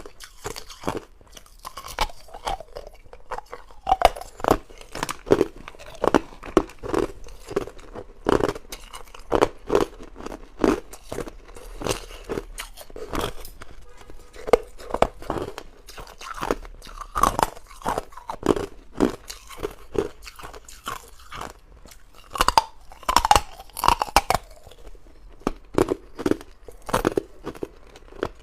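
Hard ice being bitten and chewed close up: sharp, irregular crunches, about one or two a second.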